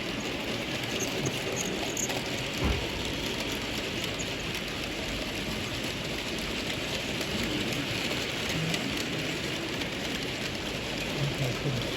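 Steady hiss and hum of a busy model railway exhibition hall, with model trains running on the layouts. There is a single knock near the three-second mark and faint voices near the end.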